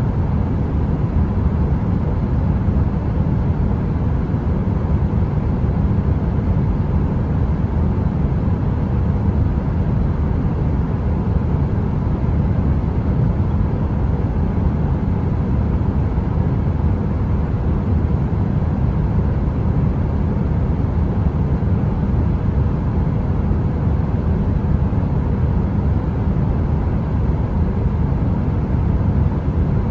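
Heater running: a steady, deep rumbling noise with a faint constant hum, unchanging throughout.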